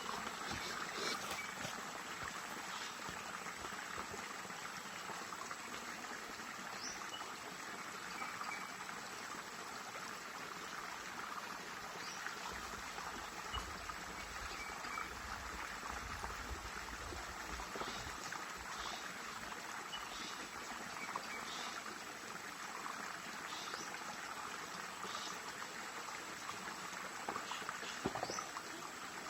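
River water flowing and trickling, a steady, continuous rush. Faint short high chirps come through now and then, and a low rumble is heard for a few seconds midway.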